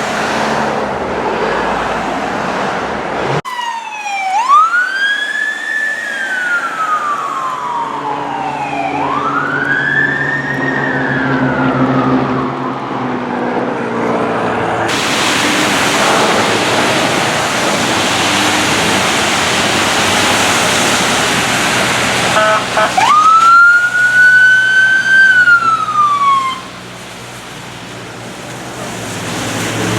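Fire apparatus siren wailing in slow rising and falling sweeps over the rumble of the truck's engine. In the middle a loud rush of noise covers it as the truck goes by. The siren wails again near the end, then cuts off suddenly.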